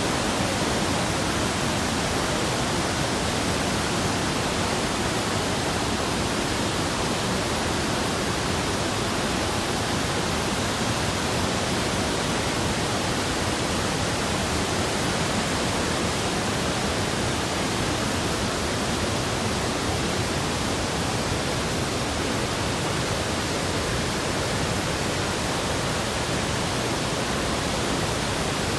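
Waterfall and river rapids rushing, a loud, steady roar of water with no breaks.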